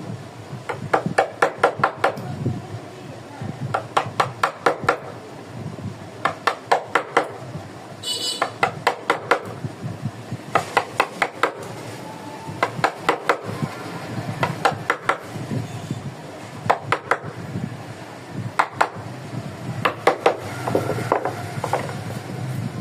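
Mallet tapping a carving chisel into wood: quick runs of sharp strikes, about five a second, with short pauses between runs. A brief high-pitched squeak about eight seconds in.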